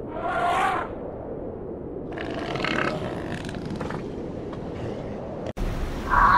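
Elephant calls: a short pitched call in the first second, then a longer, rougher call from about two to four seconds in. Near the end the sound breaks off suddenly and a different, louder sustained sound with several pitches begins.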